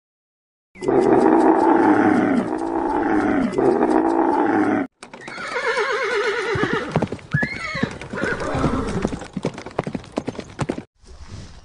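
A camel bellowing in one long, wavering call for about four seconds. After a short break, zebras calling in a run of high, yelping brays over a patter of clicks.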